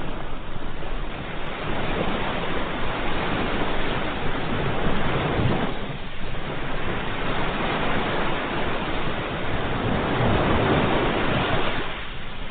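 Ocean surf: waves breaking and washing in as a continuous rush. It swells twice, with a brief lull about six seconds in and the second surge easing near the end.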